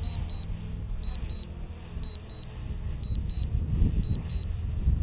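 DJI Mavic Pro remote controller beeping in quick pairs about once a second, its return-to-home alert. Strong wind rumbles on the microphone, swelling toward the end.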